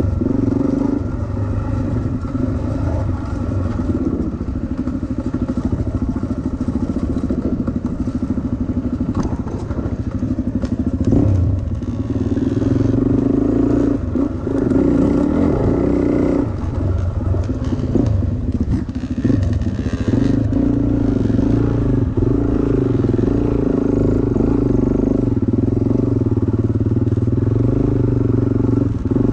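Dirt bike engine running under load on a steep off-camber trail, its note shifting as the throttle is worked. It gets louder after about the first third.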